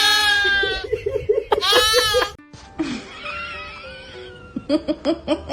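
High-pitched squealing laughter, two long squeals with quick giggles between them, then a sudden cut to quieter background music.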